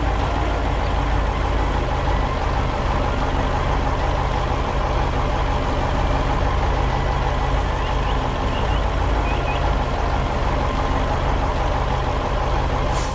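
Heavy vehicle engine running steadily, deep and even, then cutting off suddenly at the end.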